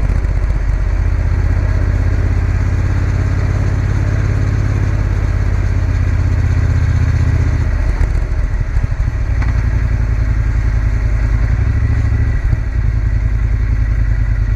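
Triumph Bonneville T120's parallel-twin engine running under way on the road, with the engine note changing about halfway through.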